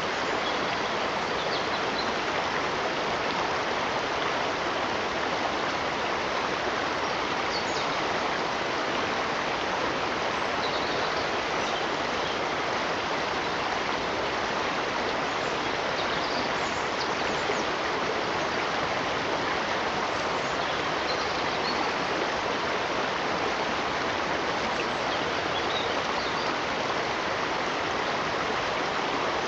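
Flowing water of a stream, an even rushing that holds steady throughout.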